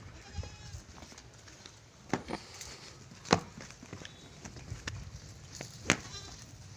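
Three sharp knocks, the loudest about a third of the way in, in a goat pen, with a faint goat bleat near the start.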